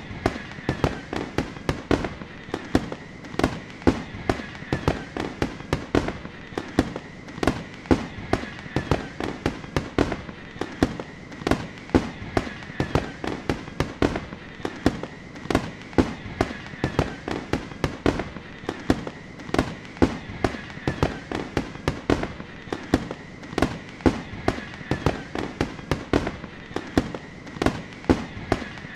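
Fireworks going off in a continuous barrage of bangs and pops, several a second, with no let-up.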